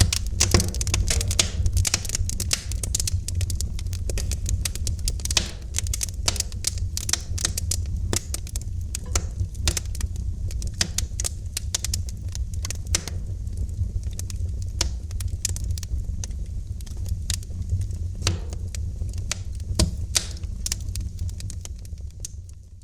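Wood fire in a fireplace crackling, with many irregular sharp pops and snaps over a steady low rumble of the flames. The sound fades in at the start and fades out near the end.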